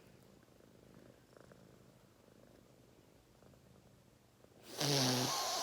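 Domestic cat purring softly in a low, steady rumble. Near the end a sudden loud burst of noise cuts in, with a short pitched sound that falls in pitch.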